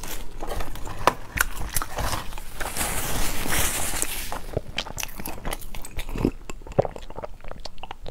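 Close-up chewing of a mouthful of food: moist mouth clicks and smacks scattered throughout, with a steady hiss lasting about two seconds around the middle.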